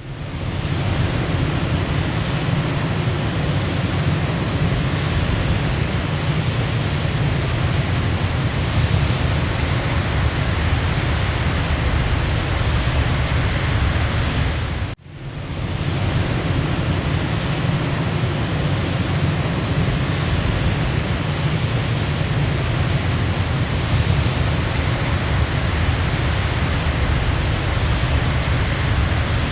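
Waterfall: a steady, deep rush of falling water, with a brief dip in level about halfway through.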